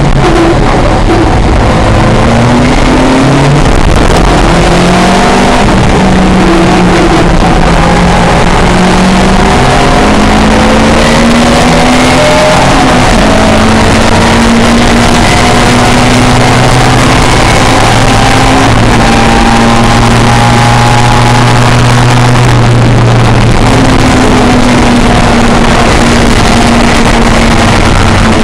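Historic pre-1966 racing touring car engine running hard: its pitch climbs with the revs and drops back at each gear change, several times over, above a loud rushing noise.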